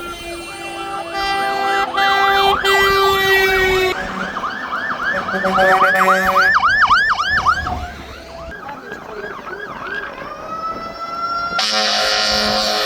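Several fire engine sirens sounding at once: steady horn tones, then fast up-and-down yelping sweeps about two a second, then a rising wail, with a loud horn blast starting near the end.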